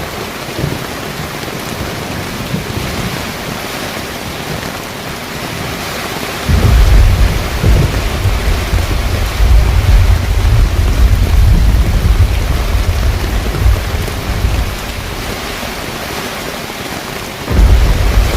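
Heavy rain falling steadily on a car rooftop tent. A deep rumble of thunder comes in about six seconds in, lasts roughly eight seconds, and starts again near the end.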